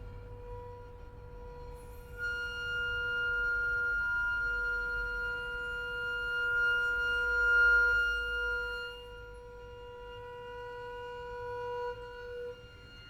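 Contemporary chamber music for flute, clarinet, violin, double bass and piano, played as long, steady held notes with no rhythm. A lower note is sustained almost throughout. About two seconds in, a higher note joins it, swells to its loudest near eight seconds and fades out about a second later.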